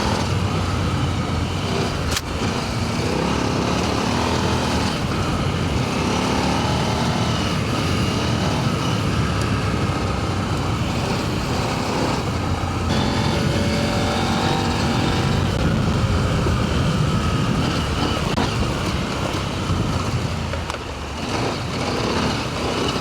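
Adventure motorcycle engine running under way on a loose sand and gravel trail, its pitch rising and falling with the throttle over a steady rush of wind and tyre noise. A single sharp click about two seconds in.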